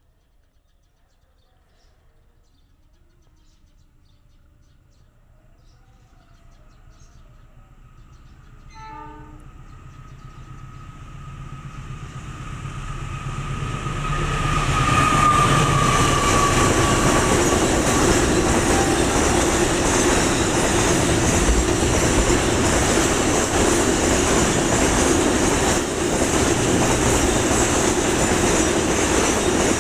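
A train approaching, growing steadily louder over about fifteen seconds, with a short horn blast about nine seconds in. It then runs close past with a loud, steady rumble of wheels on rail.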